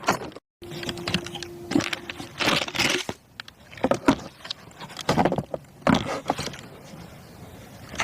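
Irregular clicking and rattling of small hard objects being handled, with a steady hum for about two seconds near the start.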